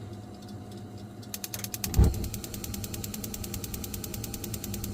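Biasi combi boiler's ignition electrode sparking, a rapid even clicking of about ten clicks a second, starting just over a second in. A single low thump about two seconds in, the loudest sound, is the gas burner lighting.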